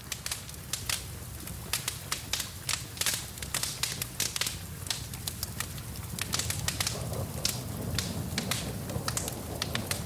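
Wood fire crackling in a fireplace: frequent, irregular sharp pops and snaps over a steady low rumble of the flames, with a soft hiss of rain beneath.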